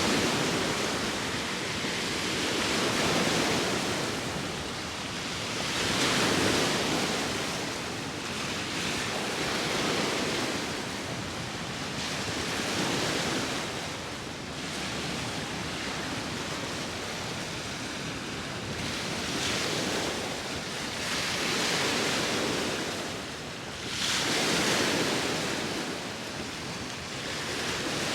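Sea waves washing ashore in slow, repeated swells a few seconds apart, each rising to a hiss and then fading, with wind blowing over them.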